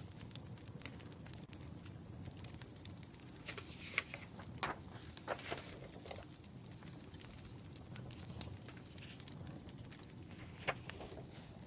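Wood fire crackling: many small ticks and pops over a low steady rumble, with a few louder snaps in the middle and once near the end.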